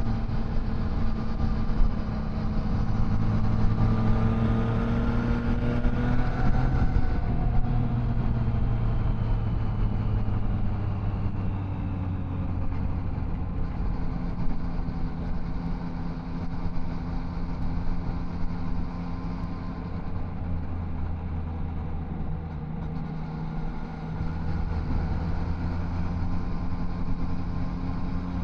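Triumph Tiger Sport 660's three-cylinder engine under way: the engine note rises steadily as the bike accelerates, eases off about seven seconds in, then settles at a steadier, lower note while cruising.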